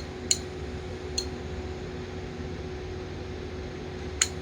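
Sharp clicks from a button on a trolling motor foot pedal being pressed: one about a third of a second in, a fainter one about a second in, and a louder one near the end. A steady electrical hum runs underneath.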